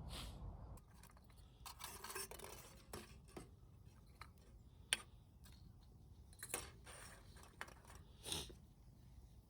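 Faint, scattered small clicks and brief crunching and scraping noises, with one sharp click about halfway through and a short rustle near the end.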